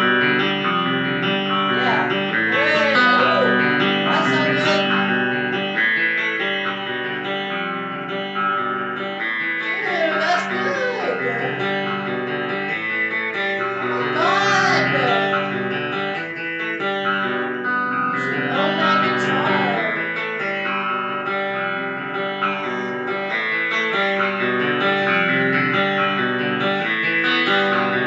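Guitar music played through a Positive Grid Spark guitar amp, running continuously, with some notes bent up and down.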